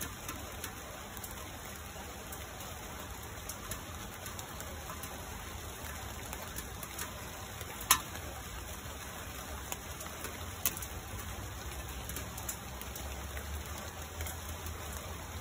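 Steady rain falling, with scattered individual drops tapping close by; one sharp drop tap about halfway through stands out as the loudest.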